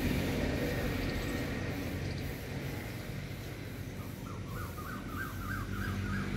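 A bird calling a quick run of short, repeated notes, about four a second, starting about four seconds in, over a steady outdoor background hiss.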